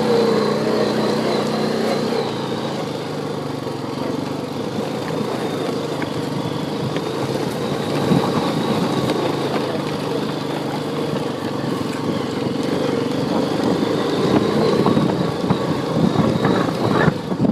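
Honda quad bike (ATV) engine running steadily as it is ridden along, its pitch shifting a little with the throttle.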